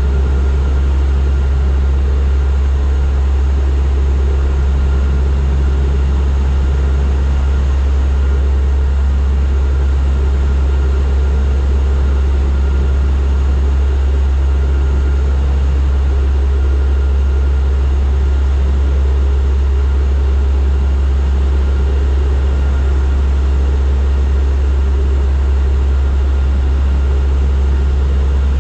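Turboprop aircraft in flight: a steady, loud propeller drone with a strong low hum and a faint steady whine above it, unchanging throughout.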